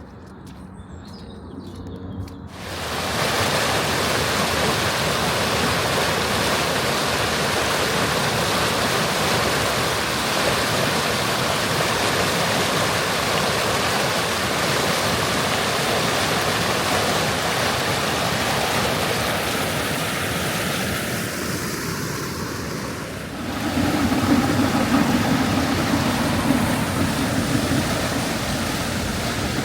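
Fast-flowing water of a river in flood, rushing loudly and steadily. It starts abruptly about two seconds in and grows louder and deeper near the end.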